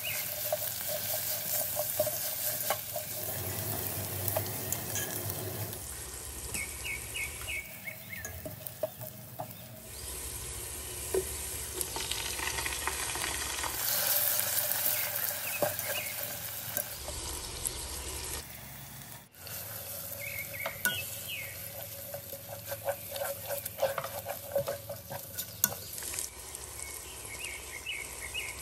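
Sliced onions, then chopped tomatoes, sizzling as they fry in oil in a non-stick pan, with a spatula stirring and scraping against the pan. The sizzle changes level abruptly several times.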